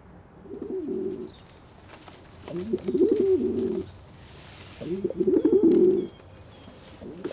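Pigeon cooing: three warbling coos, each about a second long, with short pauses between.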